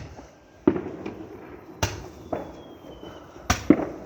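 Fireworks going off: a run of sharp bangs about a second apart, two of them close together near the end.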